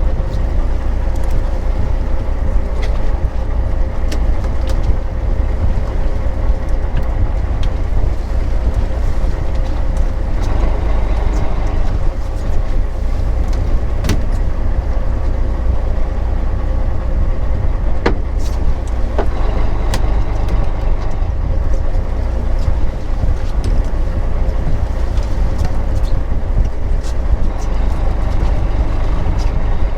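Fishing boat's engine running steadily with a low rumble and a faint steady hum, with a few scattered clicks and knocks.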